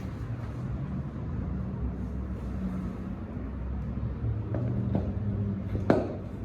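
Steady low hum in the workshop, with a couple of light knocks and then one sharp metallic clank near the end, as parts are handled while a wheel is put back on a bike.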